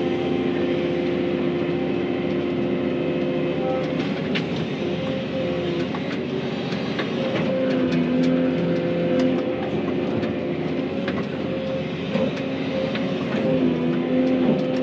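Excavator diesel engine running under load with its hydraulics whining at several steady pitches that shift as the machine works. Scattered sharp cracks and knocks come through as it pushes over and uproots brushy trees.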